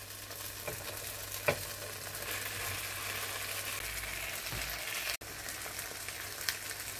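Raw pork sausages and an onion-and-tomato sofrito sizzling in a frying pan, with a couple of light knocks in the first second and a half as the sausages go in. The sizzle grows stronger after about two seconds.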